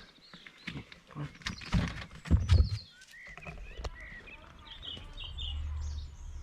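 Small birds chirping, with short high notes in the second half, over scattered knocks and rustling, with a few louder low thumps about two seconds in.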